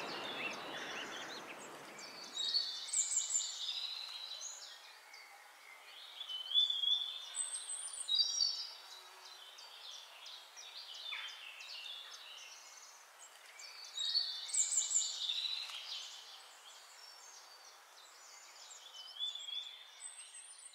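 Songbirds singing in short bursts of quick, high phrases, several times over. A steady low rush of noise sounds at the start and stops after about two seconds.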